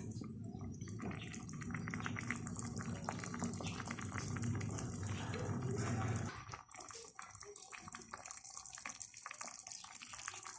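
Water running or pouring with small clicks and knocks, which stops about six seconds in; scattered light clicks follow.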